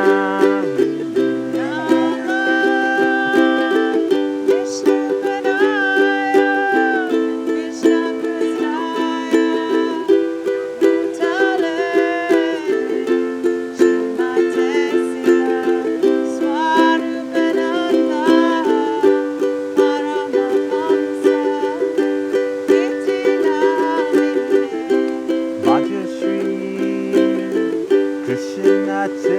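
Ukulele strumming a slow chord progression, with voices singing a devotional mantra melody over it.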